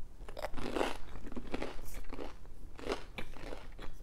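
A person chewing a bite of toast-crisp mac and cheese grilled cheese sandwich, the bread crunching in a steady rhythm of about two to three chews a second.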